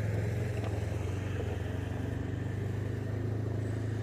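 Steady low engine drone, like a motor vehicle running at idle, holding an even pitch throughout.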